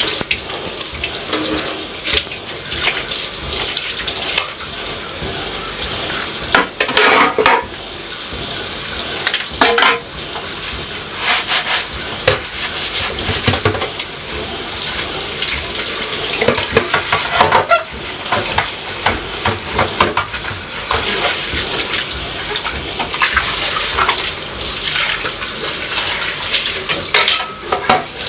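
Kitchen tap running steadily into a sink while things are washed under it, with occasional clatters of dishes or containers against the sink.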